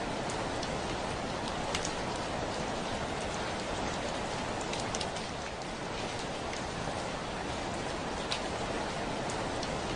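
Heavy rain falling steadily, with individual drops ticking sharply against a window every so often.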